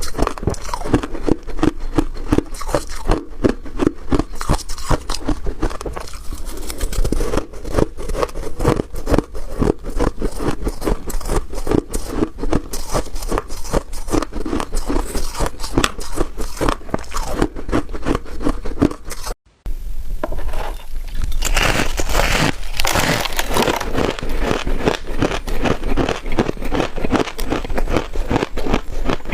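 Freezer frost being bitten and chewed close to the microphone: a dense, rapid run of crisp crunches. A brief break about two-thirds of the way through, after which the crunching is brighter and crisper.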